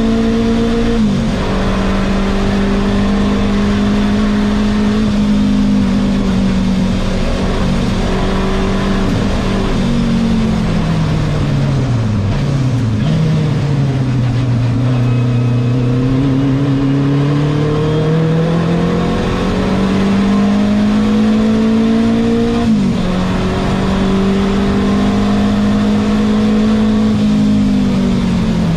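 Renault 5 Turbo 2's turbocharged four-cylinder engine under racing load, heard from inside the cabin. The revs hold high with a quick dip about a second in, fall away under braking for a corner near the middle, stay low briefly, then climb back up. A second sharp dip comes about three-quarters through, and the revs fall again near the end.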